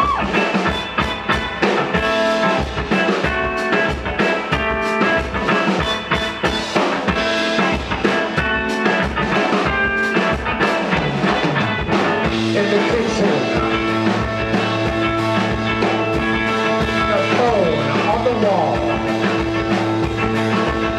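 Live rock band playing an instrumental passage: electric guitar over drums and bass, psychedelic blues-rock in style. About twelve seconds in, a held low chord comes in under the guitar.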